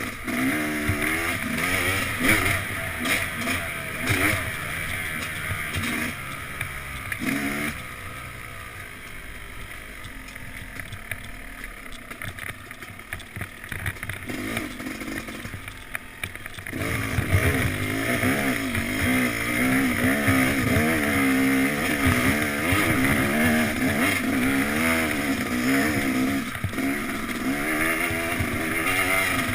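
Yamaha YZ250X two-stroke single-cylinder dirt-bike engine revving up and down under riding. It drops to a quieter, lower run for several seconds midway, then picks up and revs hard and steadily for the rest.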